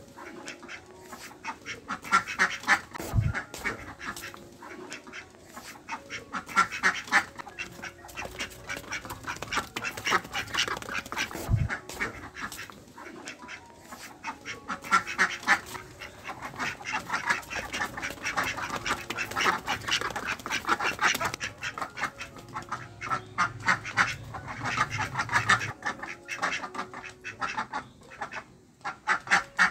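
Ducks quacking in quick runs of calls that come again every few seconds, with short pauses between.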